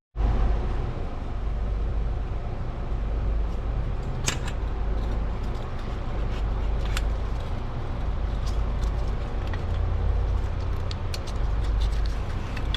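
A few sharp metallic clinks and ticks, the loudest about four seconds in and another about seven seconds in, as exhaust pipe parts are handled and fitted. They sit over a steady low background rumble.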